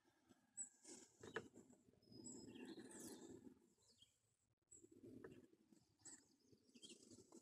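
Near silence: a faint outdoor background with a few short, high bird chirps and some faint handling noise.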